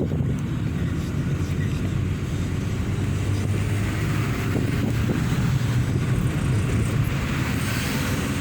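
A vehicle driving along a road: steady engine and tyre rumble with a constant hiss of road and wind noise.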